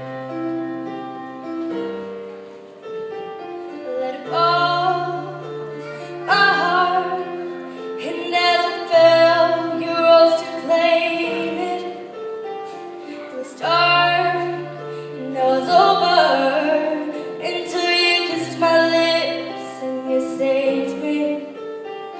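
Piano accompaniment playing a slow song, with a woman's singing voice coming in about four seconds in and carrying on over the piano.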